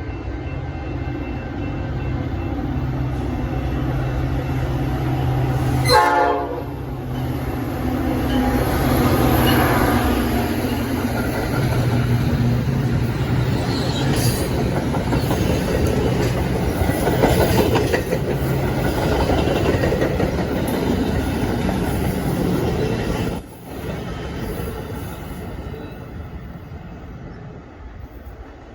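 A Metra commuter train runs through the station at speed without stopping. Its diesel locomotive gives one short horn honk about six seconds in, then the cars rush past with wheels clattering over the rails. The noise drops suddenly about 23 seconds in and dies away.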